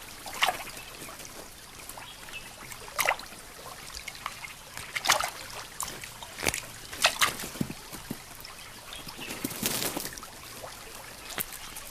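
Water trickling and dripping, with short irregular splashes a few seconds apart and a brief flurry of them near the end.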